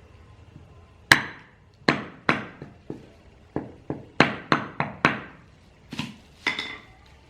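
About a dozen sharp, irregularly spaced hammer taps driving a new oil seal into a telescopic suspension leg, each strike ringing briefly.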